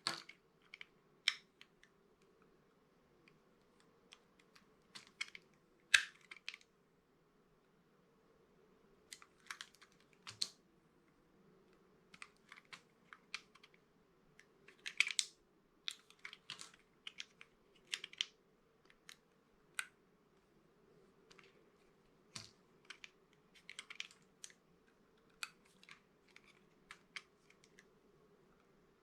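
Dry bar soap being cut: an irregular run of crisp clicks and cracks as the blade snaps through it, with short pauses between cuts and the sharpest crack about six seconds in.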